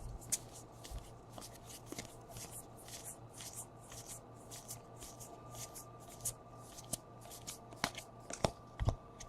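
Baseball trading cards being slid and flipped one after another in the hands: soft, quick swishes and ticks, several a second, with a few sharper clicks near the end, over a faint steady hum.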